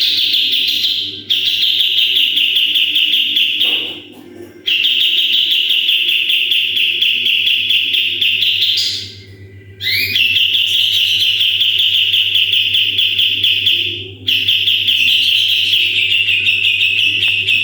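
Kapas tembak songbird singing its rapid 'tembakan' trill: about five long, fast-pulsed rattling trills held at one high pitch, separated by short pauses.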